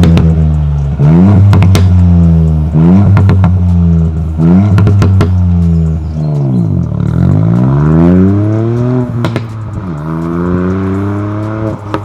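Ford Fiesta ST Mk8's 1.5-litre three-cylinder turbo engine and exhaust accelerating hard. The pitch climbs and drops sharply at each of several quick upshifts, with short cracks at the shifts. Around the middle the revs fall away and then climb again.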